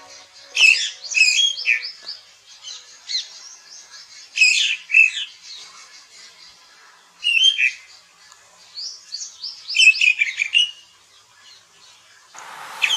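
Bird chirping and squawking in four short bursts of rapid notes, separated by pauses of a second or two. Music comes in near the end.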